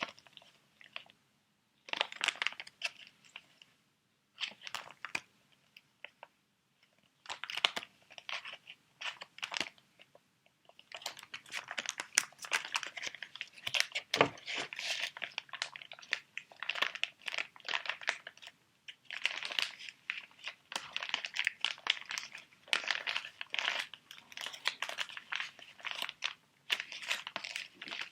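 Crinkly plastic sheet-mask packets being handled and crumpled close to the microphone. The crackling comes in short bursts with pauses for the first ten seconds or so, then runs almost without a break.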